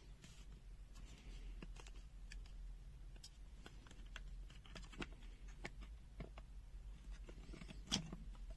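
Faint, irregular clicks and light taps of a plastic multimeter case and its small parts being handled while it is taken apart, with one louder knock just before the end.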